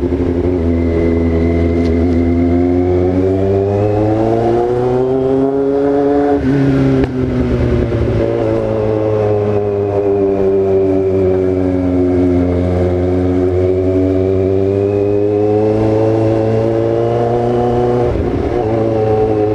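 Yamaha XJ6's inline-four engine running at speed, its pitch climbing slowly through the gears, with a gear change about seven seconds in and another near the end.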